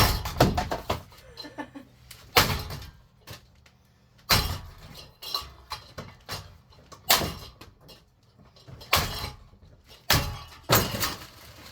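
Sharp knocks and rattling clatter of ceiling fan parts being handled and struck: about eight separate impacts, a second or two apart.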